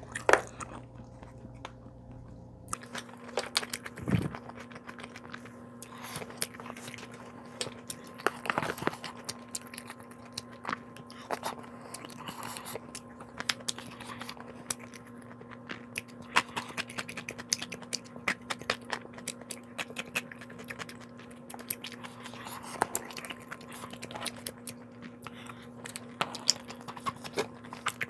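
A person chewing and biting food close to the microphone, with many small sharp clicks and crunches from the mouth.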